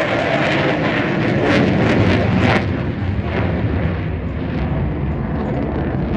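F-35B's Pratt & Whitney F135 jet engine, loud and crackling, easing about two and a half seconds in to a lower, steadier noise.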